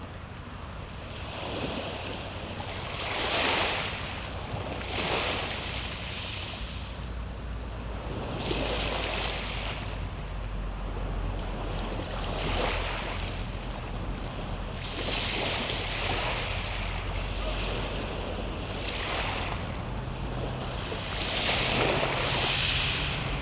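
Ocean waves: surf rushing in in repeated surges every two to four seconds over a steady low rumble of the sea.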